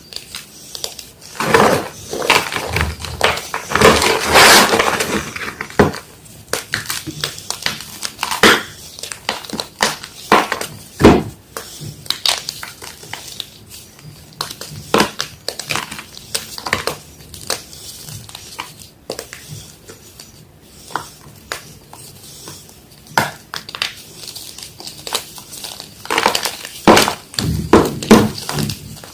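Block of yellow gym chalk being crushed: dense runs of crunchy crackling in the first few seconds and again near the end, with scattered single crunches between.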